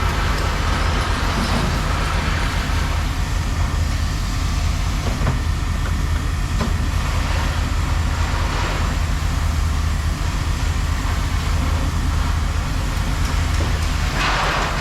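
A large engine running steadily with a low, even rumble, with a few faint knocks.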